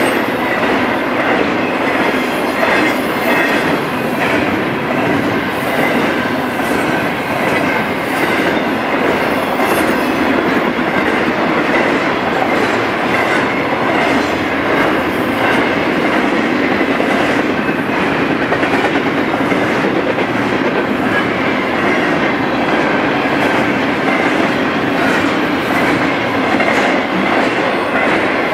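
Intermodal freight train's cars rolling past at close range: a steady wheel-on-rail rumble with clickety-clack from the wheels over the rail joints.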